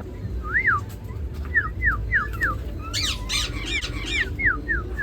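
Aviary birds chirping: a run of short, quick up-and-down chirps, several a second, growing busier and shriller about three seconds in as more calls overlap.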